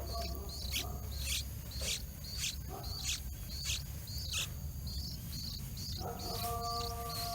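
A small bird calling repeatedly in alarm: sharp, high chirps that drop in pitch, about two a second, over a steady low rumble. A steady held tone comes in about six seconds in.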